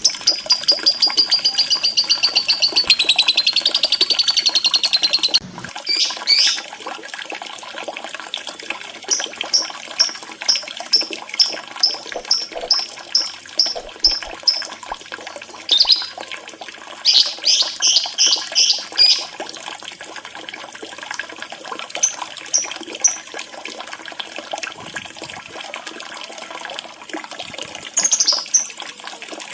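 Recorded lovebird calls over steady running water: a long, rapid, high chattering trill that cuts off suddenly about five seconds in, followed by runs of short high chirps at about three a second and a few scattered bursts.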